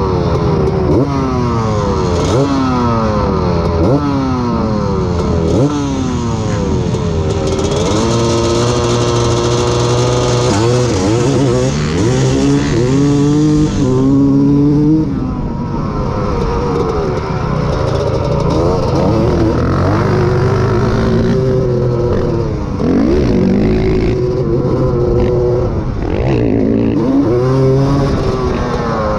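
Honda ATC250R three-wheeler's two-stroke single-cylinder engine racing: revs rising and falling again and again for the first several seconds, then held high under hard acceleration, the pitch stepping down with each upshift, then rising and falling through the corners. Other trikes' engines are mixed in.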